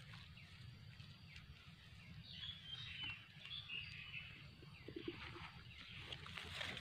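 Faint outdoor forest ambience: small birds chirping briefly in the middle, over a steady low rumble, with some rustling near the end.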